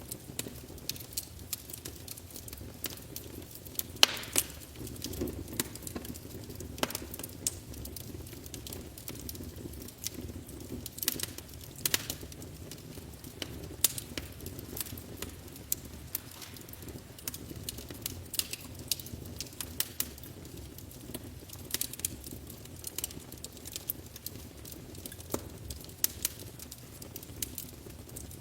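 Wood fire crackling in a fireplace: irregular sharp pops and snaps over a steady low rumble of the flames, with the loudest pop about four seconds in.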